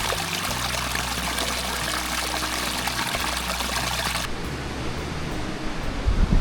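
Running water pouring and trickling, as in a small stream or seasonal waterfall; the water sound cuts off abruptly about four seconds in.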